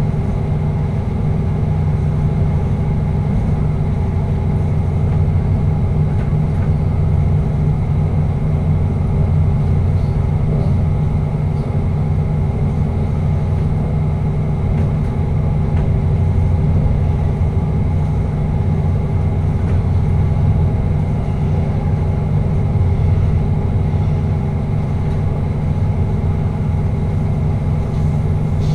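Steady running noise heard inside a moving passenger train's cab: a low, even drone with several steady tones held through, with no changes or events.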